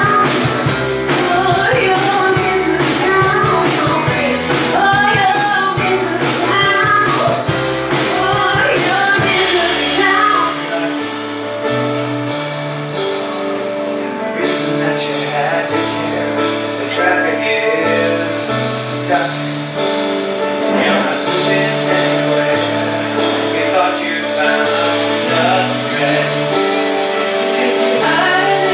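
Live band with singers performing a pop-rock song. The voices are strong for the first third; from about ten seconds in it is mostly the band, with a stepping bass line and a steady beat.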